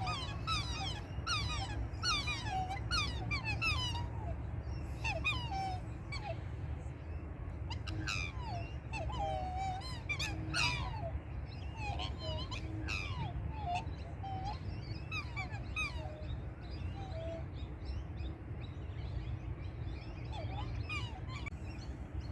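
Black swan cygnets peeping: many short, high calls sliding mostly downward, thickest in the first few seconds and again around the middle, then thinning out, over a steady low rumble.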